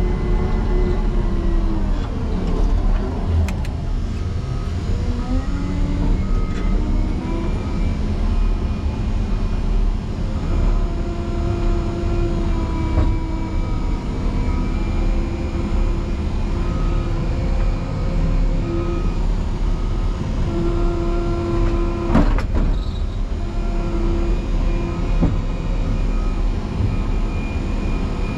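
Motor grader's diesel engine running steadily under load at about 13 mph in sixth gear, its pitch dipping and then recovering about two to six seconds in. A sharp knock about 22 seconds in.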